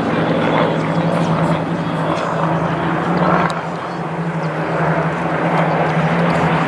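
Piston engine of a WWII fighter (Spitfire or Hurricane) in flight, a steady propeller drone with an even engine hum, easing slightly about halfway through before building again.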